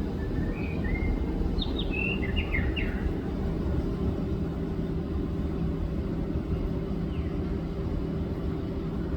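A white-rumped shama gives a short run of clear whistled notes and quick slurred phrases about a second in, and one faint note later. Under it runs a steady low mechanical hum, louder than the bird.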